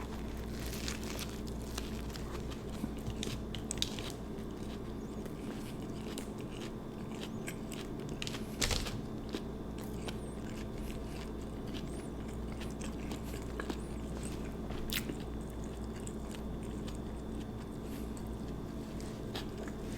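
Close-miked chewing of an Italian sub sandwich: soft crunches, wet mouth clicks and smacks at an irregular pace, with one bigger bite or crunch a little before the middle. A steady low hum runs underneath.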